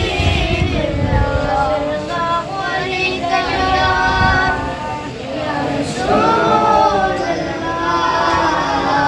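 Voices singing a devotional chant, with held notes that bend up and down.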